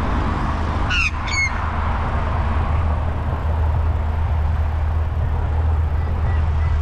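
A bird attacking a cyclist gives two short, harsh calls about half a second apart, about a second in, over a steady low rumble of wind and road noise.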